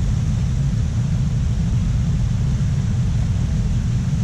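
Steady low rumble with a faint hiss over it, wind buffeting the microphone.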